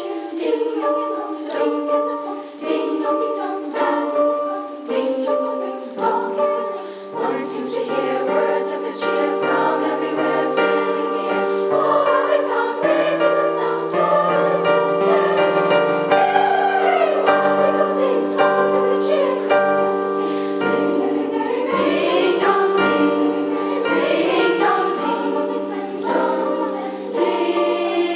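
Middle school treble choir singing a Christmas song in sustained parts, with lower accompanying notes coming in about six seconds in.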